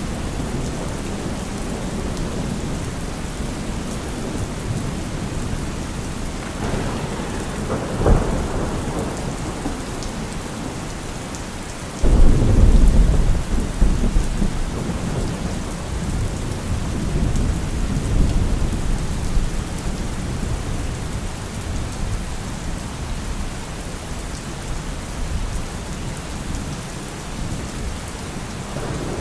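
Steady heavy rain with thunder: a sharp crack about eight seconds in, then a loud, deep rumble that starts suddenly about four seconds later and rolls on, slowly fading.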